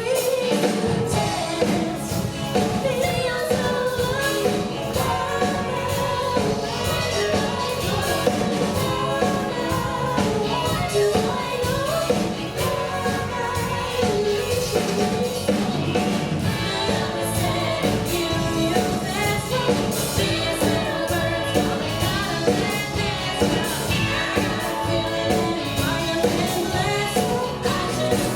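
Live band performing a song: voices singing together over a full band with a steady drum beat.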